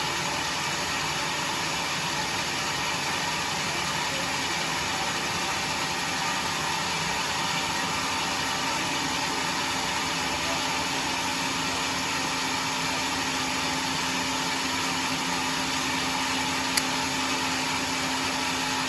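Homemade sawmill running with a steady, even machine noise that does not change, and a single sharp click near the end.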